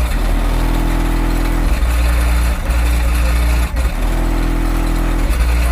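Car subwoofers playing deep bass at high volume: a heavy low bass drone with sustained notes that come and go in blocks of about a second, from two Skar 15-inch subwoofers.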